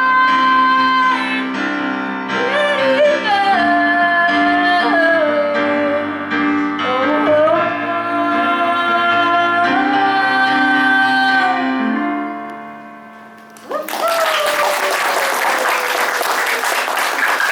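Female voice singing held and sliding notes over piano chords, the last sung note and the piano fading out about twelve seconds in. Audience applause breaks out near the end.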